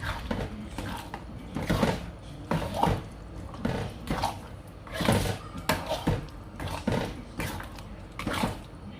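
Spatula scraping and knocking against a pan while stirring a thick chili paste as it fries, repeated strokes about two a second.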